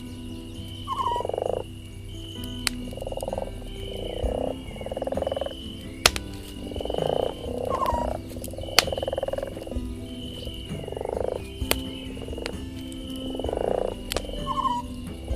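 Frogs croaking in repeated short pulsed calls, one every second or two, over a steady high insect-like drone. A few sharp pops from a crackling campfire cut in.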